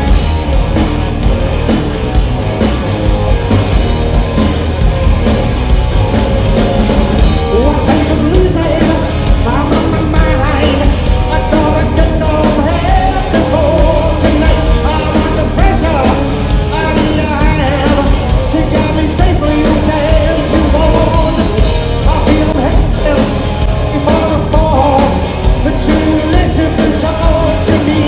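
Live rock band playing loud, with drums, bass and guitars throughout and sung, partly shouted vocals joining about eight seconds in.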